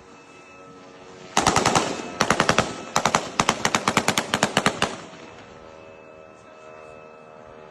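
Bursts of automatic gunfire, fired at an attacking drone: a short burst about a second and a half in, another just after two seconds, then a longer burst of about two seconds, at roughly ten shots a second. A faint steady hum runs underneath.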